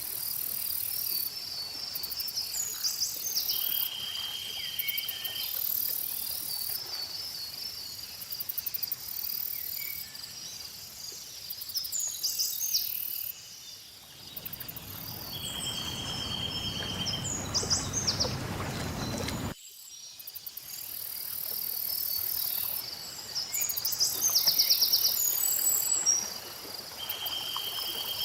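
Layered lakeside nature ambience: insects chirring in pulsing high bands while birds chirp and trill repeatedly. About halfway through, a low rush of lapping lake water swells for several seconds, then cuts off suddenly.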